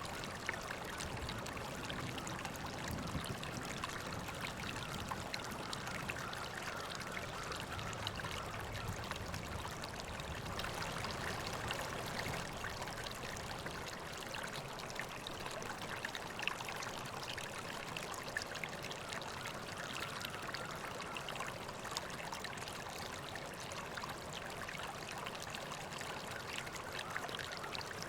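River water flowing and trickling steadily over stones, a continuous rushing babble with small splashes.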